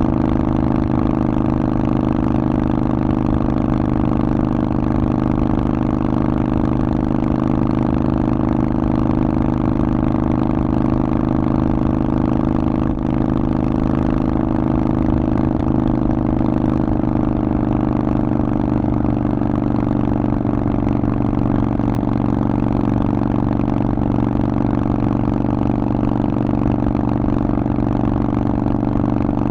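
Harley-Davidson Forty-Eight's air-cooled Evolution V-twin running through a Vance & Hines aftermarket exhaust. It holds a nearly constant pitch, with no revving.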